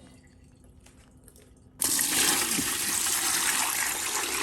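Water pouring into the tub of a small compact washing machine, filling it with clean water for the rinse cycle. It starts suddenly just under two seconds in and runs on steadily.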